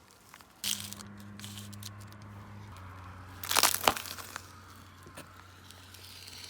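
A car's tyre rolls over a toy mask and crushes it. There is crackling and crumpling, then one loud crunch about three and a half seconds in, over the car's steady low engine hum.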